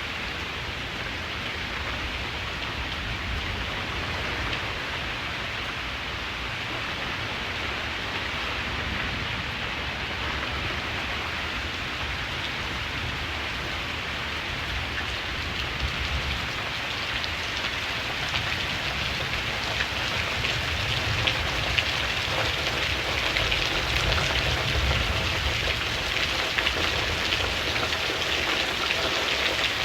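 Steady rain falling on surfaces, with a low rumble of thunder underneath. The rain grows heavier and louder in the second half, with more distinct drop ticks.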